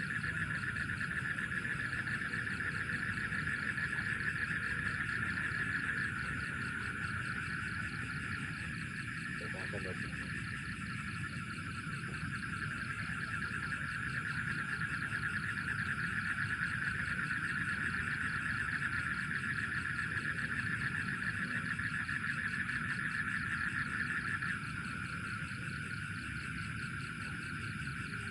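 Steady night chorus of calling animals: a dense, high, finely pulsing trill that eases slightly near the end, over a low background hiss.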